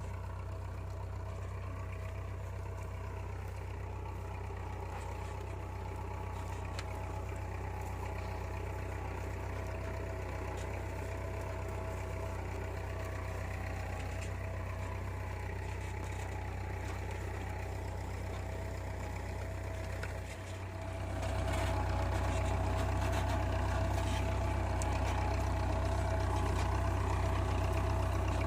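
Tractor's diesel engine running steadily; about twenty seconds in it dips briefly, then picks up and runs louder.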